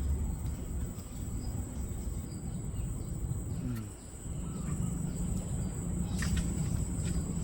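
Rural outdoor ambience: a steady low rumble, a constant high-pitched insect drone, and a few faint short bird chirps.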